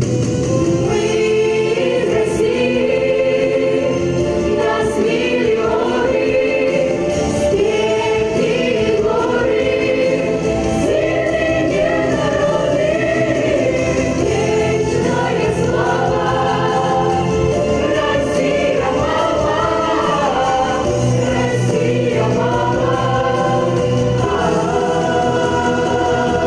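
A children's vocal ensemble singing in chorus over instrumental accompaniment, with a soft beat ticking about every two and a half seconds.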